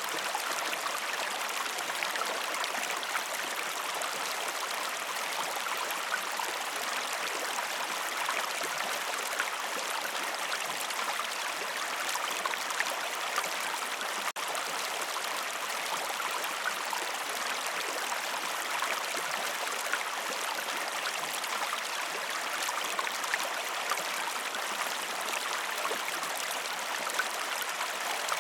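Steady rushing of a running stream, an even water noise with small splashy flecks and no change throughout.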